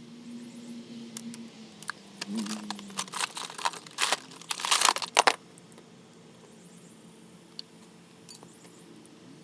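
Small metal objects clattering and clinking as they are handled, densest for about three seconds in the middle, over a faint steady hum.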